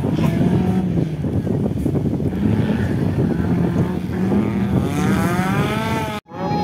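Off-road 4x4 race vehicle's engine running under load, then revving up and down from about two-thirds of the way in; the sound cuts off abruptly near the end.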